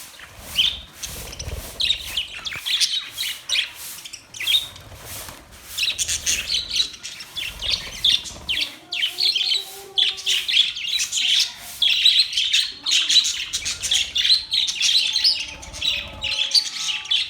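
Several budgerigars chattering and warbling: a dense run of quick, high chirps that gets busier about six seconds in.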